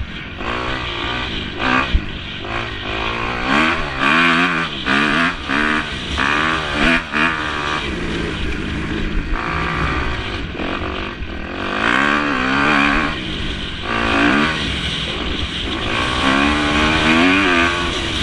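Several motocross bikes' engines revving hard, their pitch repeatedly rising and falling as the riders accelerate, shift and back off, with more than one bike heard at once.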